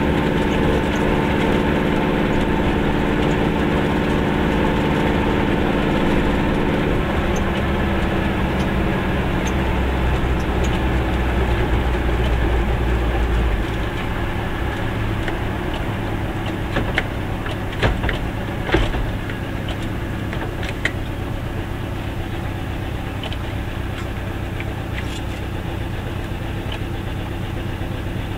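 Goggomobil's two-stroke twin engine running while the car drives. About halfway through its sound drops as the car slows toward a stop at a red light, and a few sharp clicks come soon after.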